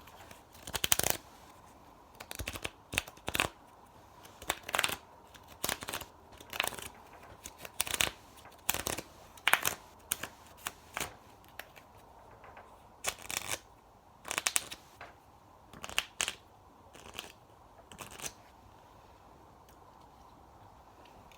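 Close-miked ASMR trigger sounds: short clusters of crisp clicks and crackles, about one a second, thinning out near the end.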